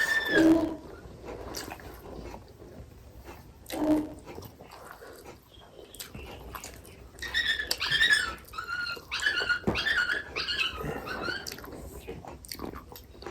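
A dog whining, with a run of high, wavering calls in the second half.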